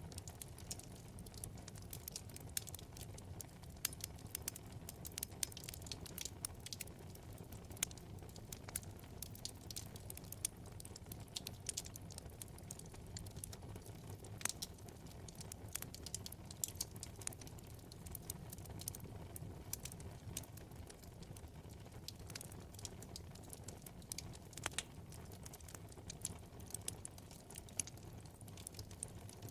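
Wood fire burning in a fireplace: a low, steady rumble of flames with frequent irregular small crackles and pops from the burning logs.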